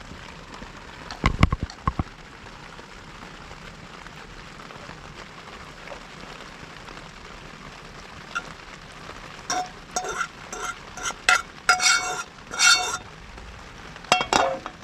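Metal cookware clinking and knocking, with a cluster of ringing clinks about a second in and a busier run in the second half, over a steady hiss of rain.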